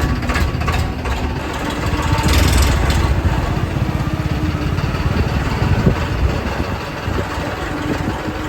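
Tractor engine running at low revs, swelling louder for about a second around two seconds in.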